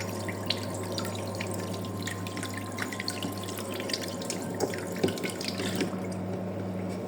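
Water dripping and trickling, with many small irregular drips and a few sharper clicks, over a steady low hum.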